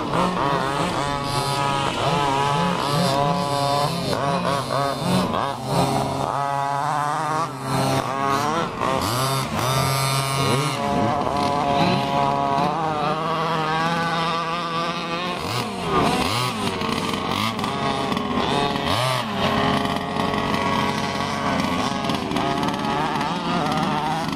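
Several small two-stroke engines of large-scale RC cars revving up and down as the cars are driven, their whining pitches rising and falling and overlapping one another.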